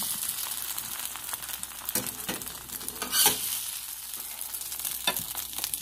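Egg-soaked tortillas sizzling as they fry in a pan, with a cooking utensil scraping and knocking against the pan; the loudest knock comes about three seconds in.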